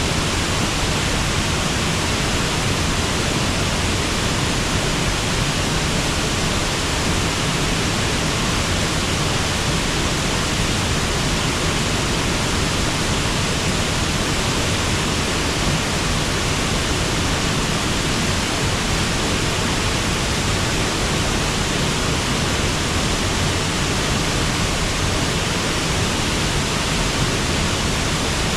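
Water pouring over a river waterfall, an even, unbroken rush that holds steady throughout.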